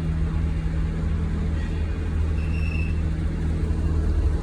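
A houseboat's diesel engine running steadily just after start-up: a deep, even drone.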